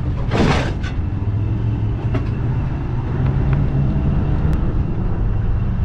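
A vehicle's steady low rumble, with a short burst of hiss about half a second in and a few light clicks.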